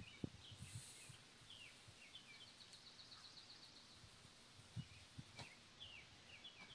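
Quiet outdoor ambience with small birds chirping on and off and a short, rapid high trill around the middle; a few soft low thumps.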